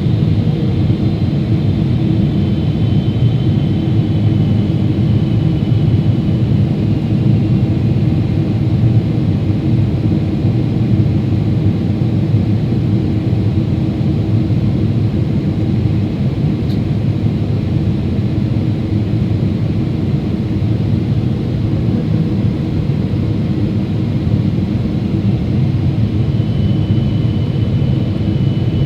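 Steady, loud roar of a Boeing 777-300ER airliner, its engine and airflow noise heard from aboard the aircraft. A faint high whine shows near the start and again near the end.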